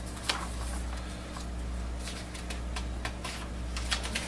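Paper rustling with scattered light clicks as a printed quick-guide booklet is handled and its pages are turned, over a steady low hum.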